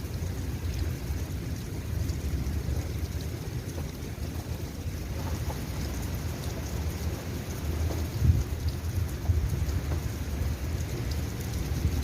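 Steady rain falling, with fine scattered drop ticks over a continuous low rumble; two brief louder low surges come about two-thirds of the way through.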